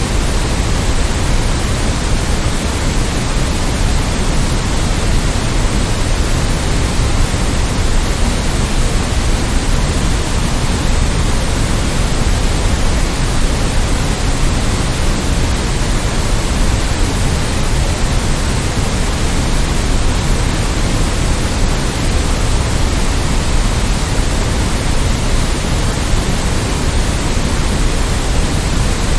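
Steady white noise: an unbroken, even hiss, fuller in the low end, with no changes or events.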